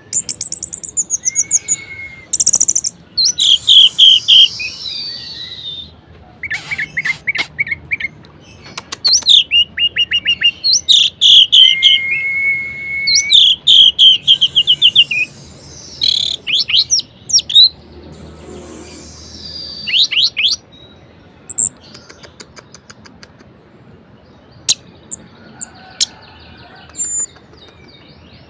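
Orange-headed thrush singing a loud, varied song: rapid runs of repeated notes, trills and whistled phrases with short pauses between them, thinning out to scattered short notes in the later part.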